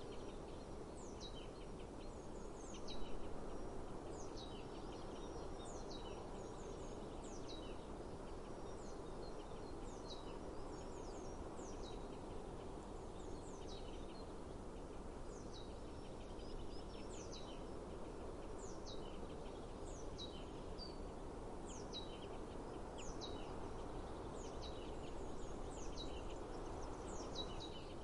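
A bird repeatedly gives a short, high call that sweeps downward, about once a second, over a steady outdoor background hiss. A brief louder noise comes about three seconds in.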